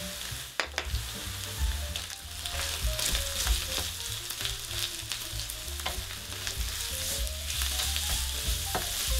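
Minced pork, onions and garlic sizzling in a frying pan while a wooden spatula stirs and scrapes them, with a few sharp knocks against the pan.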